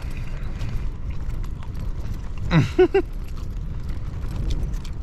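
Heavy rain on a tent's flysheet, a steady low rumble with scattered drop ticks. About two and a half seconds in, a man gives a short "mm-mm" while eating.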